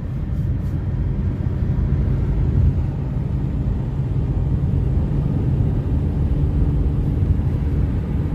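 Steady low rumble of a moving road vehicle: engine and road noise while driving.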